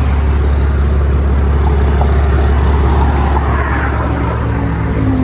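Steady road-traffic noise with a heavy low rumble, vehicles running past on an expressway. Background music comes in near the end.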